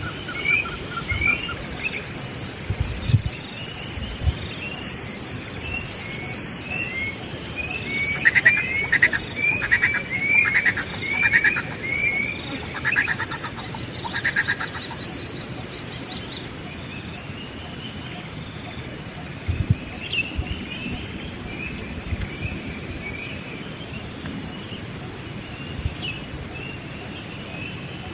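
Wild birds chirping and calling in short, quick rising notes, with a louder run of chirps in the middle, over a steady high-pitched whine. A few low bumps come early on and again about two-thirds of the way through.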